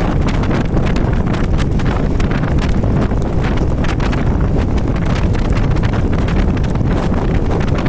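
Heavy wind buffeting the microphone on an electric scooter riding at speed, with a steady rumble and frequent small knocks and rattles running through it.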